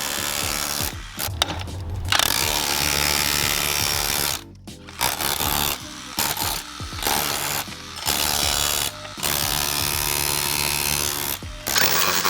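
Cordless DEWALT DCH293 SDS Plus rotary hammer chipping, run in bursts of one to three seconds with short pauses between.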